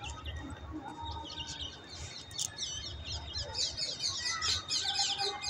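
A flock of small birds chirping and twittering, many quick high chirps overlapping. The chirping thickens from about a second and a half in.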